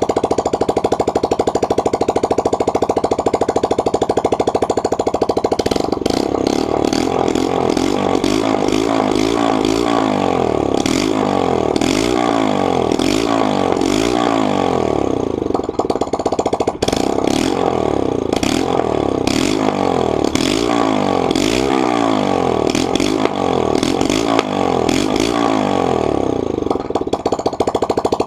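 Yamaha YBR125's single-cylinder four-stroke engine idling steadily through its exhaust, then revved over and over in quick throttle blips from about six seconds in, the pitch rising and falling roughly once a second. Near the end it settles back to idle.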